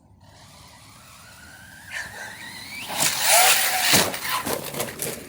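Radio-controlled truck's electric motor whining higher as it speeds up, then a loud scrabble of tires and a sharp thud about four seconds in as the truck lands, followed by a few rattles.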